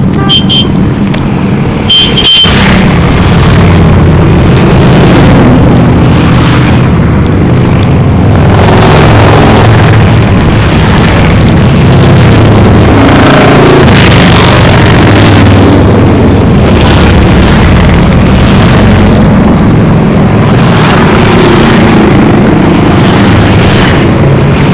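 Many motorcycles riding past in a continuous stream, their engines running loud and overlapping, with a couple of sharp clicks at the start.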